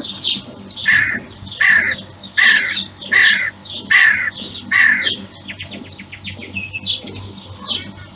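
Six loud, harsh bird calls in a row, about three quarters of a second apart, over quicker high chirps from other birds.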